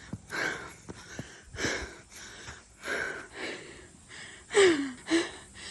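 A person panting hard from running, with quick heavy breaths about once or twice a second and two louder, voiced gasps near the end.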